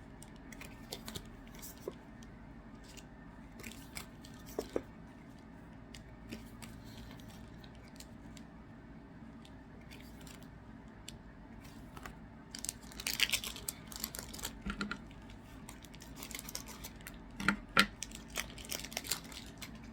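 Trading cards and foil pack wrappers being handled: scattered soft clicks and rustles, with busier flurries of rustling about two-thirds of the way through and again near the end.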